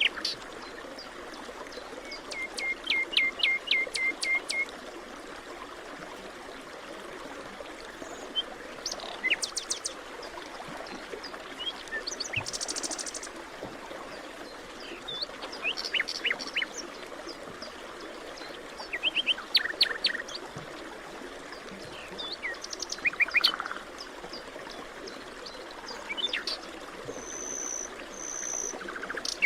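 Several birds singing in a forest, short chirps and rapid trills coming every few seconds over a steady background hiss that may be running water.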